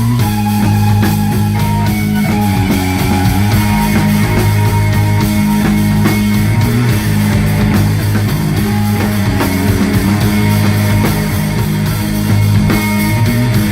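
Loud live rock music from a band: electric guitars and drums over a heavy, sustained low bass line, with a steady drum beat.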